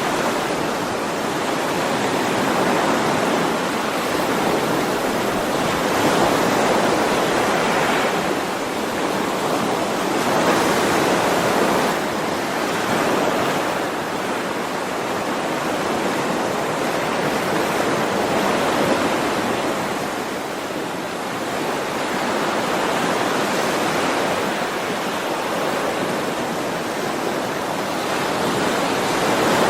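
Ocean surf: waves washing in on a shore in a steady hiss that swells and eases every few seconds.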